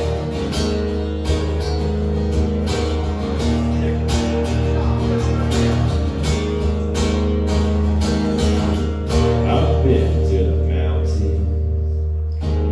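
Live song's instrumental outro: guitars playing over a steady low bass line, with a regular beat.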